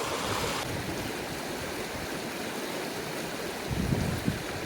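Steady rushing of a flowing river, with a few low thuds near the end.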